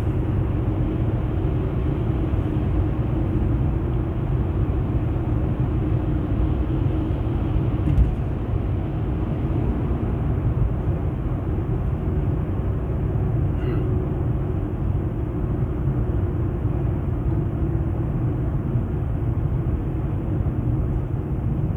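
Steady engine and road noise inside a moving car's cabin, a low rumble with a faint steady hum, and a single short knock about eight seconds in.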